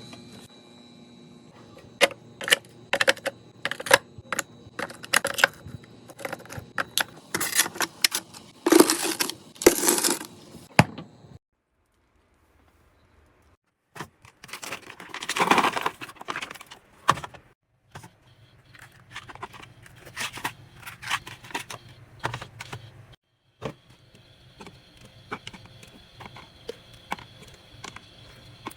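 Packaging and containers being handled and set down: a run of sharp clicks and taps with a few short rustling bursts, broken by a couple of seconds of dead silence about twelve seconds in.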